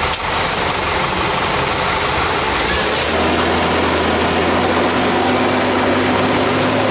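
Heavy truck engine running hard under load, with noise across all pitches; about three seconds in its note steadies into a constant low hum.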